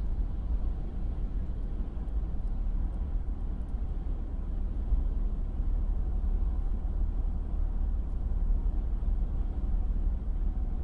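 Steady low rumble of a moving vehicle as picked up by a dashcam microphone, cutting off abruptly at the end.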